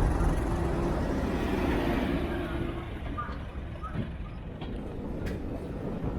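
Low engine rumble of a passing motor vehicle, loudest at first and fading away over about three seconds, with a steady hum in it for a couple of seconds; a few light clicks follow.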